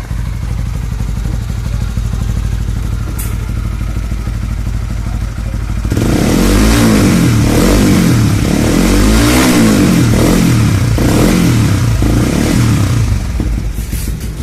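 Honda CB150R's single-cylinder engine running through an aftermarket slip-on exhaust muffler: it idles, is revved up and down several times from about six seconds in, then settles back to idle near the end.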